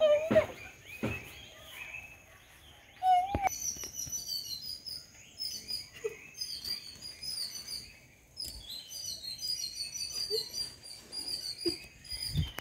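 Small birds chirping in quick, twittering bouts of short high notes that start about three seconds in, over a faint steady high-pitched tone.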